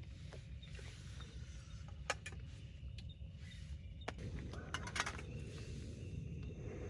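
Night forest ambience: faint insects trilling over a steady low rumble, broken by scattered sharp clicks and taps, with a quick cluster of them about five seconds in.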